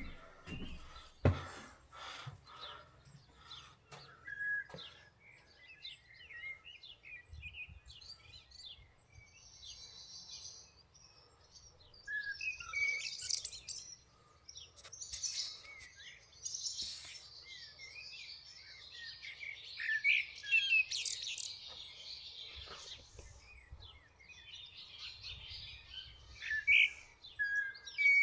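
Small birds chirping and singing, many short overlapping calls and trills, growing busier in the second half. A few sharp knocks in the first couple of seconds, one of them the loudest sound.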